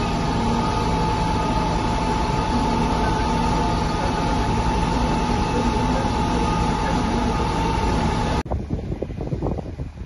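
Loud, steady engine-like machine noise with a constant whine, cut off abruptly about eight seconds in, followed by wind on the microphone.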